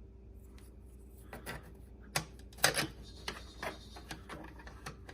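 A few scattered sharp plastic clicks and taps, loudest a little over two seconds in, from handling the battery compartment and side panel of a garage door opener's interior unit.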